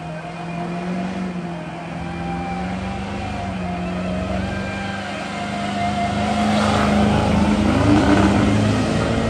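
Truck engine running steadily under load, its pitch and loudness slowly rising.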